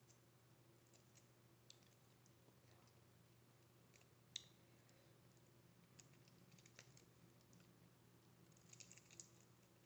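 Faint, scattered wet clicks and smacks of someone eating close to the microphone, one sharper click about four and a half seconds in and a quick cluster near the end, over near silence.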